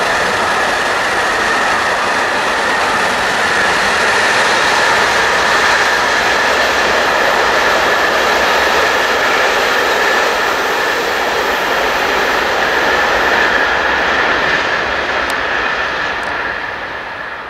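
Freight train of tank wagons rolling past on the rails, a loud steady running noise of wheels on track with a high steady tone over it, fading away near the end.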